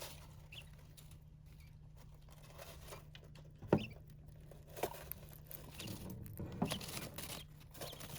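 Young king quail dust-bathing vigorously in a bath box of loose litter: faint scratching and pattering of scattered grains, with a few sharp ticks, the loudest a little after halfway.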